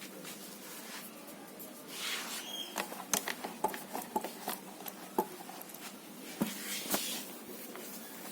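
Hand polishing of a motorcycle: light rubbing and scattered small clicks and taps, with two brief hissy swishes, about two seconds in and again near the end.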